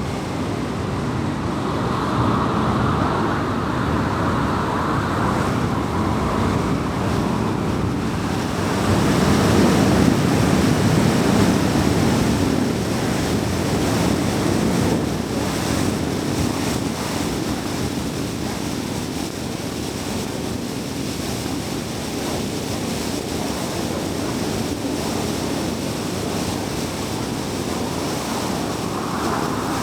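A car driving on a city road: steady rush of tyre and wind noise, swelling in places and loudest about ten seconds in.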